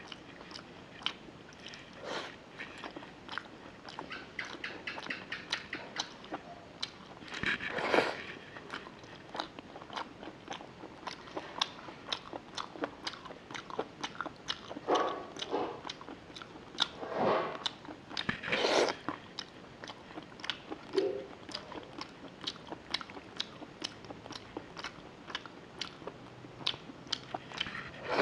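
Mouth noises of a person eating rice and a curried chicken leg by hand: wet chewing and smacking clicks, several a second, with a few louder, longer mouth sounds around the middle.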